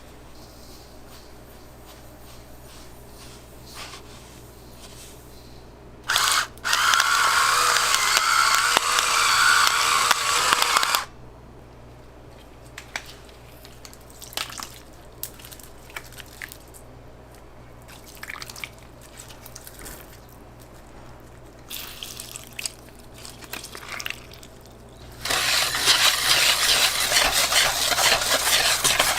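Food preparation at a street-food stall: scattered small clicks and knocks of utensils, with two loud stretches of steady hissing, about five seconds long from about six seconds in, and again for the last four seconds.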